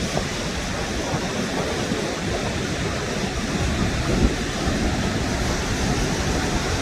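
Steady, loud rush of the High Falls of the Pigeon River, a large waterfall.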